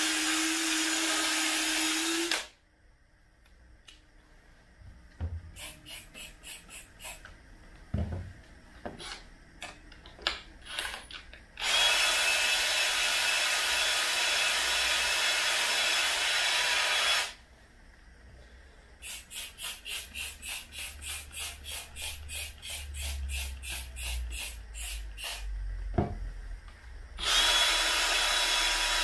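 Wet vacuum cleaner running in three long stretches, starting and stopping abruptly. Between them are quieter gaps with runs of short rhythmic rubbing strokes, about three a second.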